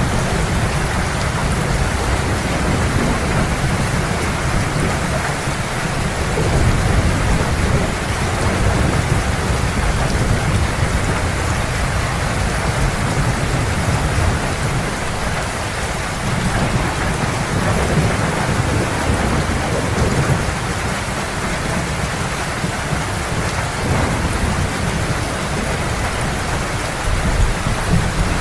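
Heavy, steady rain pouring down, with a continuous low rumble of distant thunder underneath.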